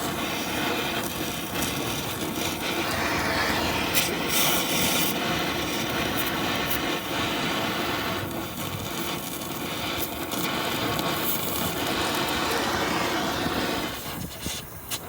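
VW T3 van driving, its engine and road noise heard from inside the cab as a steady rushing din.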